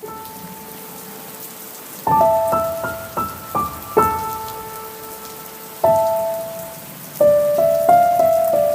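Steady rain hiss under an electronic keyboard in a piano voice. A faint held note opens, then single notes of a slow melody are struck from about two seconds in, each left to ring and fade.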